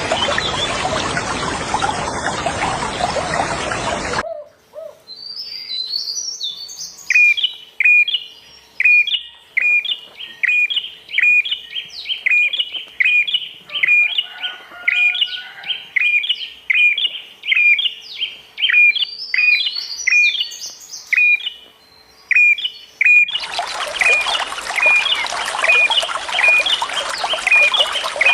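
Running water for about four seconds, then cut away to a bird repeating a short, sharp high note about three times every two seconds, with some higher chirps mixed in. Near the end the water comes back in with the bird still calling.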